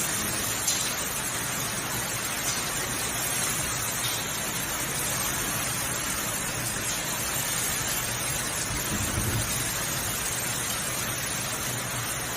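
Heavy storm precipitation pelting down: a dense, steady hiss with a few faint sharper hits.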